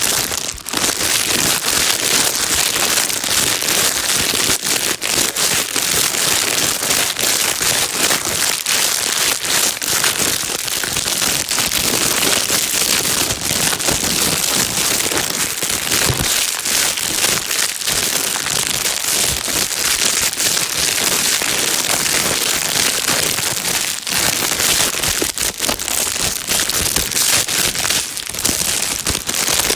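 Plastic bag being crinkled and rustled without pause, a dense steady crackle, used as white noise to calm a crying baby.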